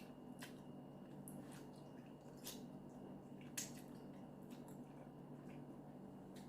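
Faint wet mouth clicks and smacks of someone chewing instant noodles, a scattered handful of small clicks with one a little louder about halfway through, over a low steady room hum.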